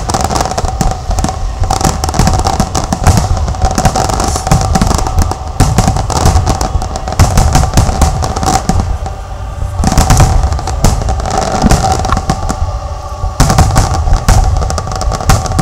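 Aerial fireworks display: a dense, rapid barrage of loud bangs and crackles, easing briefly in the middle before building again. A steady tone runs underneath the bangs.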